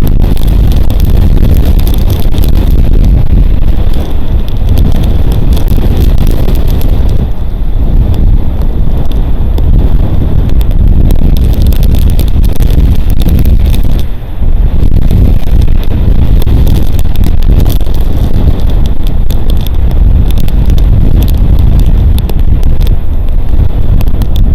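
Strong wind buffeting the outdoor nest camera's microphone: a loud, continuous low rumble, with a brief lull about two-thirds of the way through. Rain drops tick against it throughout.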